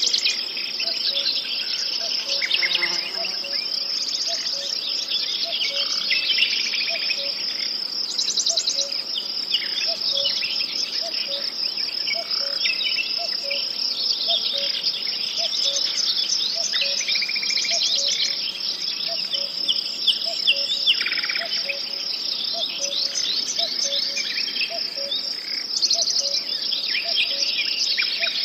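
Nature ambience: a steady high trill of crickets or other insects, with many birds chirping and trilling over it. A soft low note repeats about once or twice a second underneath.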